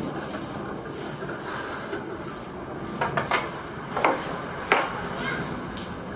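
Metal parts and tools clinking and knocking, about five sharp strikes in the second half, over a steady background noise.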